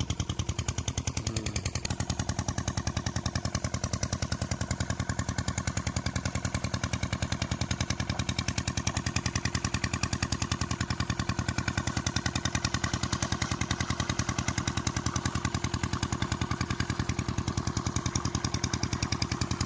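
Diesel engine driving an irrigation water pump, running steadily with an even, rapid beat of firing strokes.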